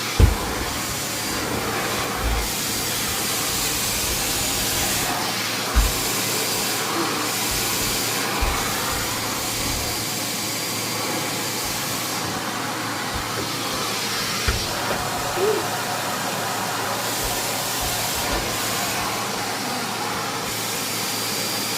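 Numatic Henry vacuum cleaner running steadily, with a few short low thumps.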